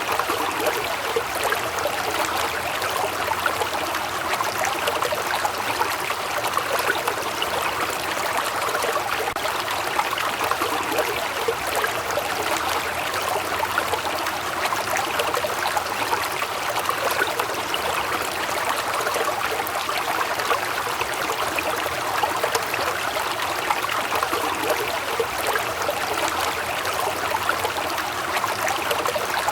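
Waterfall, with water falling and splashing in a steady, even rush.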